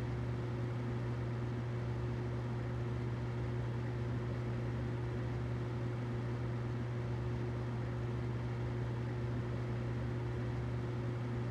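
Humidifier running: a steady low hum with an even hiss above it, unchanging throughout.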